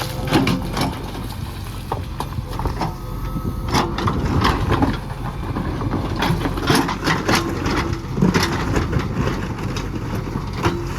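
Backhoe loader's diesel engine running under load during digging, with repeated knocks and clatters from the working bucket and soil throughout.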